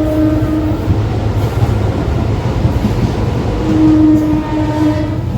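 Passenger train running with a steady low rumble, its horn sounding twice: a blast carried over from before that stops under a second in, and another single-pitched blast of about a second and a half starting about three and a half seconds in.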